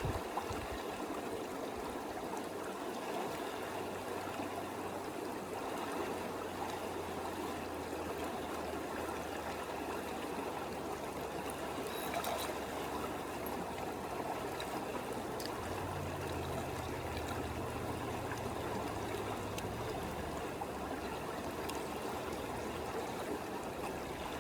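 Creek water running and trickling steadily, with a faint low hum underneath for much of it.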